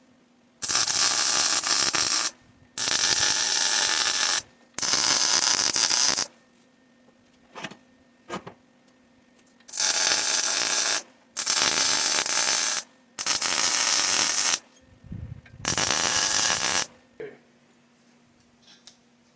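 Arc welder laying a series of tack welds on exhaust header pipes: seven bursts of loud, even hiss, each lasting about a second and a half, with short pauses between them. A faint steady hum sits underneath the pauses.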